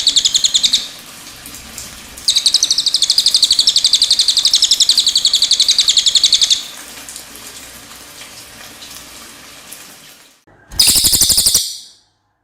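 Cililin (yellow-throated hanging parrot) singing in long, fast, high-pitched trills: one ending just under a second in, one running from about two to six and a half seconds, and a short one near the end. Between the trills there is a faint trickle of water.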